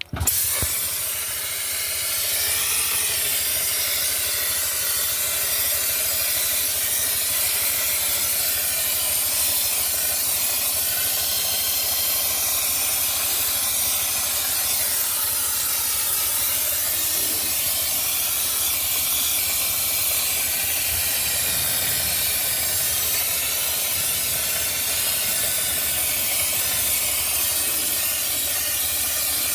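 Dry-ice blasting gun running: a steady, loud hiss of compressed air carrying dry-ice pellets, starting suddenly and holding even.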